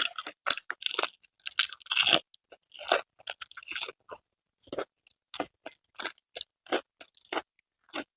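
A person chewing food with crisp crunches: a dense run of crunching bites in the first few seconds, then slower, evenly spaced chews, two or three a second.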